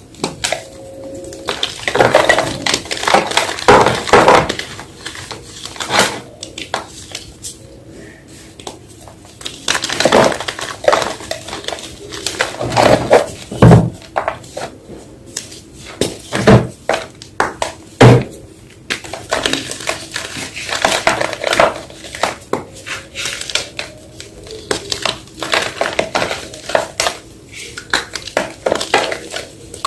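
Fresh white gym chalk being crushed, crunching and crackling in irregular bursts with short pauses between them.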